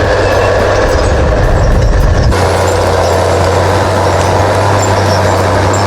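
Log skidder's heavy diesel engine running steadily under load, with a deep, even hum. The sound changes abruptly a little over two seconds in.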